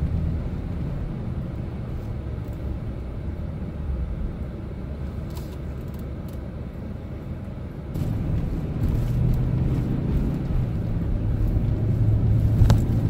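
Chevrolet Silverado pickup driving on a plowed town road: a steady low engine and road rumble from inside the cab, which gets louder about eight seconds in as the truck picks up speed. A single sharp click comes near the end.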